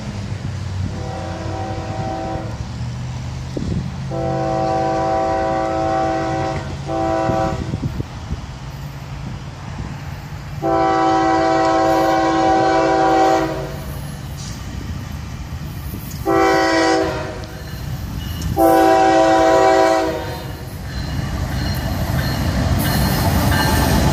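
Florida East Coast Railway freight locomotive's multi-chime air horn sounding a series of long and short blasts over the low rumble of the diesel engines. Near the end the train grows louder as it comes close.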